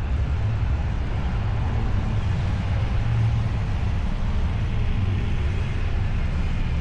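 Steady rumble of wind and road noise on the camera microphone of an e-bike riding along at speed.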